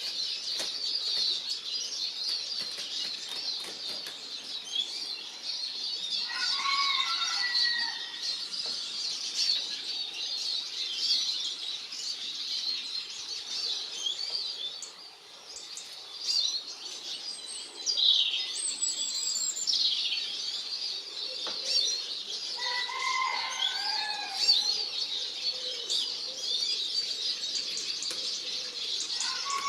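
Eurasian siskins at a bird feeder: a steady, dense high twittering and chirping, with quick wing flutters as birds come and go. A lower, stepped call comes in three short bouts: about a quarter of the way in, around three quarters, and at the end.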